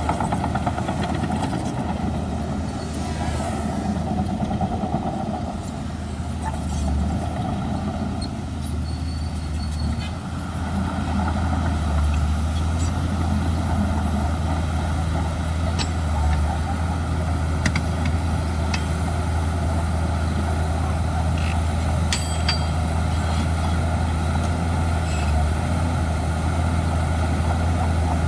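Diesel engine of a Shantui DH17C2 crawler bulldozer running steadily, growing louder about ten seconds in, with a few faint clicks.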